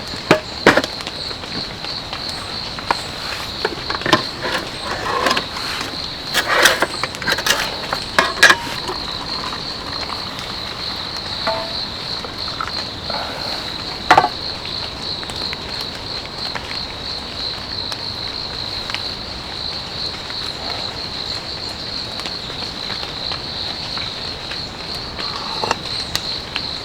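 Crickets chirping in a steady, fast-pulsing high trill, with scattered sharp clicks and knocks in the first several seconds and once more about halfway through.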